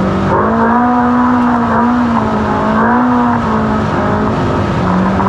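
Ultra4 off-road race car's engine running hard, its pitch rising and falling several times as the throttle is worked, then holding a steady note near the end.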